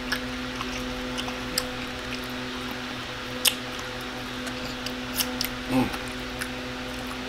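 Close-up mouth sounds of a person eating fried chicken: scattered wet smacks and clicks of chewing, one sharper smack about halfway through, and a brief hummed 'mm' near the end. A steady low hum runs underneath.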